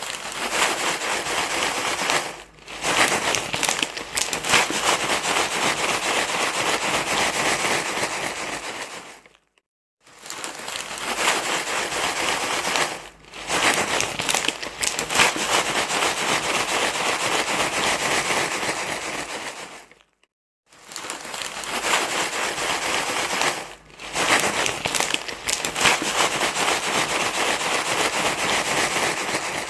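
Dense crinkling, rustling noise, the 'rustle' sound played to soothe a crying baby. It runs in long stretches broken by short pauses, with the pattern repeating about every ten seconds.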